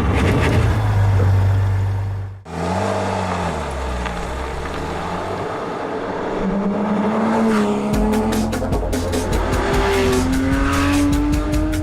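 A car driving hard, its engine revving with rising pitch, over background music.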